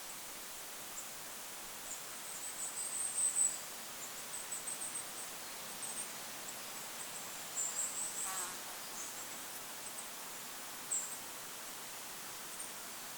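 Goldcrest calling: short series of very thin, very high notes, repeated several times, the loudest series about three seconds in. Under it runs a steady hiss of wind noise.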